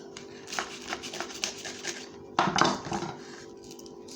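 Kitchenware being handled: a run of light clicks and taps over the first two seconds, then a louder clatter about two and a half seconds in, over a faint steady hum.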